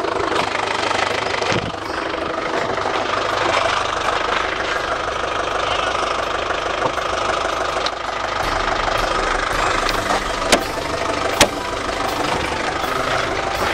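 Ice cream truck's engine idling steadily, with two sharp clicks near the end.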